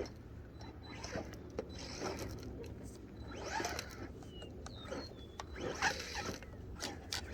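RC short course truck running on a dirt track: its tyres scrabble and crunch over the dirt in short bursts, with scattered clicks and a few brief faint motor whines.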